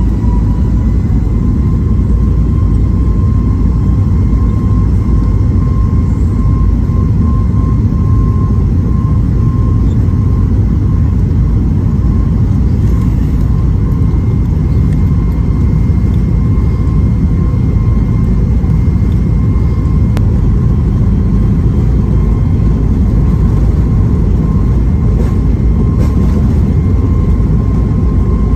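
Boeing 737 MAX 8's CFM LEAP-1B jet engines at takeoff thrust, heard inside the cabin: a heavy, steady rumble with a high fan tone that rises and settles just as it begins, then holds.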